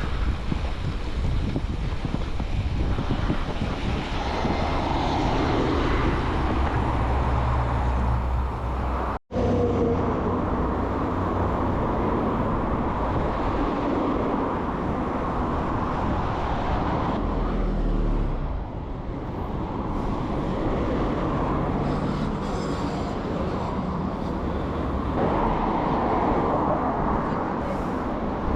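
Steady road and wind noise from a moving vehicle, with rumble low down. The noise cuts out for an instant about nine seconds in, then carries on.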